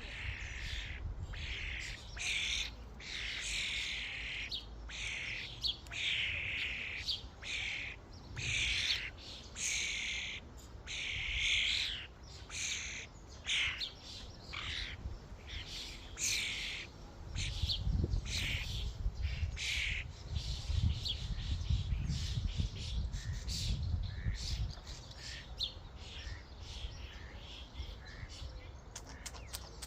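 A flock of common starlings calling at a feeder: many short, harsh, noisy calls one after another, densest in the first two-thirds and thinning toward the end. A low rumble runs under them through the middle stretch.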